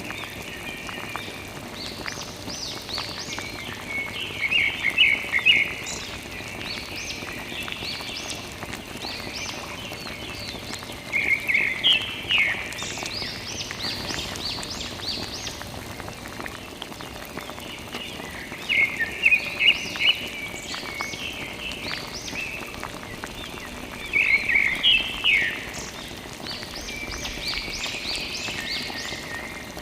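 A bird singing a short phrase of rapid high chirps, repeated about every six to seven seconds over a steady hiss.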